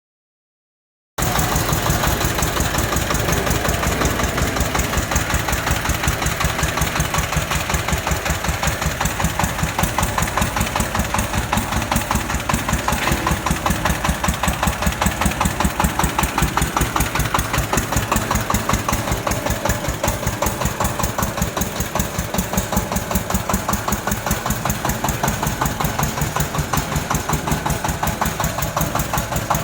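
Mini crawler tractor's engine running steadily with a rapid, even knocking beat. It cuts in suddenly about a second in.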